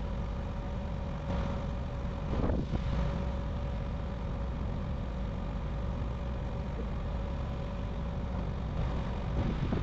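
Engine of heavy farm machinery running steadily, a low rumble with a steady whine above it.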